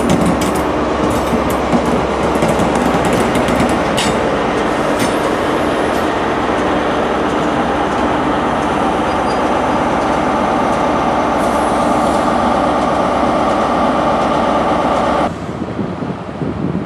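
An InterCity 125 (HST) train of Mark 3 coaches running past, its wheels clicking over rail joints in the first few seconds, then a steady hum as the coaches roll by. The sound drops abruptly near the end to a quieter wind noise.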